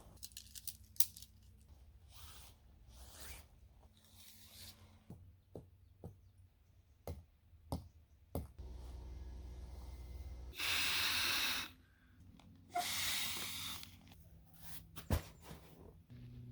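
Camping gear being handled while a tent is set up: scattered clicks and knocks with fabric rustling, and two longer bursts of rustling about ten and thirteen seconds in.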